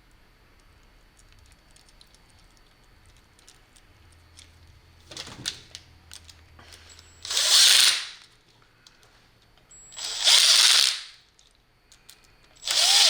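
Cordless drill with a screwdriver bit driving screws, run in three short bursts of about a second each, each rising in pitch as the motor spins up, after a few small handling clicks.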